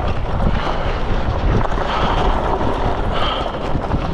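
Wind buffeting the camera microphone over a steady low rumble from a Freego X2 electric dirt bike moving over dirt.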